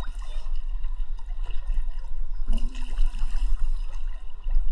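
Seawater sloshing and lapping close around the camera as it moves through the water, over a heavy steady low rumble.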